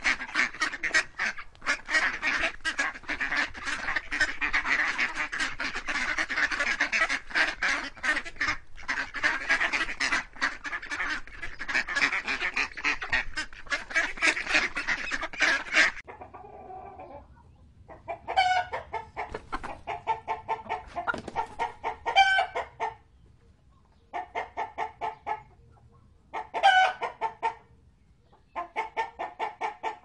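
A flock of ducks quacking continuously and densely. About halfway through this gives way to chickens clucking in short bursts with pauses between them, and a few louder, higher squawks.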